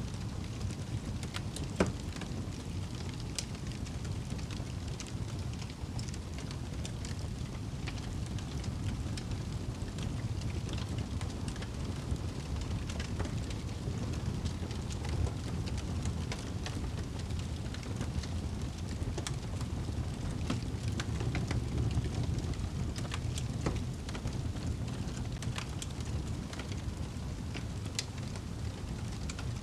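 Wood fire in a fireplace crackling, with scattered sharp pops, the loudest about two seconds in, over a low steady rumble.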